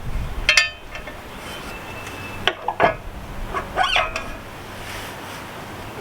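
Several short metallic clinks and clanks of hand tools and metal parts being handled, some ringing briefly.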